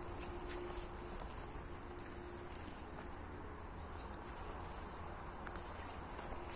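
Outdoor ambience with a steady high insect drone, a low rumble of wind on the microphone and scattered light clicks.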